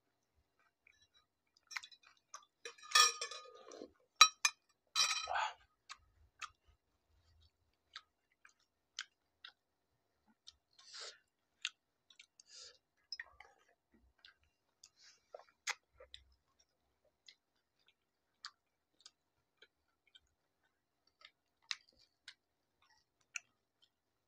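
Pani puri being eaten: crisp hollow puri shells crunching and wet chewing in the mouth, with scattered small clicks and clinks of utensils against glass bowls. The loudest crunching comes about three and five seconds in.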